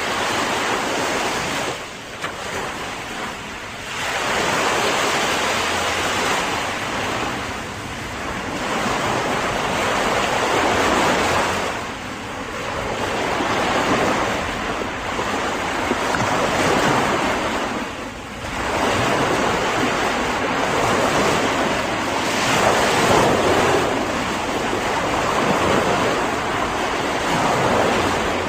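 Ocean surf: waves breaking and washing in continuously, the rush of water surging and easing every few seconds.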